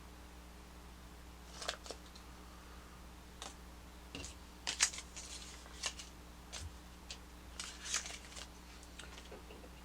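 Small plastic toy parts clicking and rustling as they are handled and pressed together, about a dozen scattered clicks, the sharpest about five seconds in.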